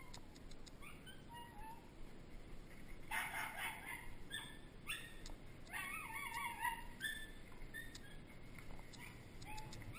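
Birds calling: short chirps scattered throughout, with two longer, louder wavering calls about three and six seconds in.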